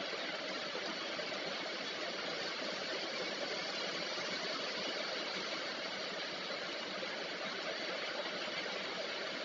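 Steady rain falling: an even hiss of rain that holds the same level throughout.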